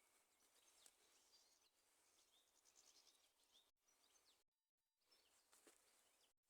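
Near silence: faint forest ambience with a light hiss and scattered distant bird chirps, briefly cutting out to nothing just before the middle.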